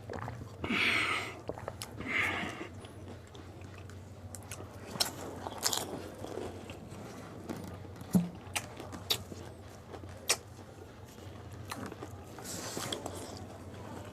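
Close-up eating of spicy pani puri: biting into crisp fried puri shells and chewing. Two short noisy bursts in the first few seconds are followed by scattered sharp crunches.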